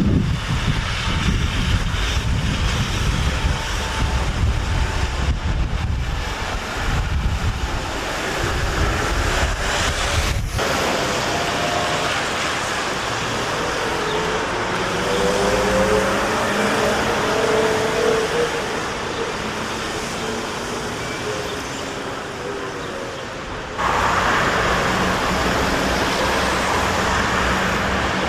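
Street traffic around electric trams and trolleybuses. In the middle section a rising whine can be heard, like a vehicle pulling away. The sound changes abruptly twice as the shots change.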